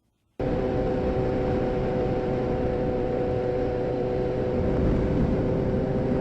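A motorcycle running at a steady speed, its steady engine note under heavy wind noise on the microphone, starting abruptly about half a second in.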